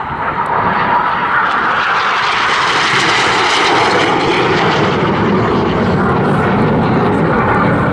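Jet noise of BAE Hawk T1 aircraft making a low close pass, swelling over the first second, brightest near the middle, then deepening in pitch as the jets draw away.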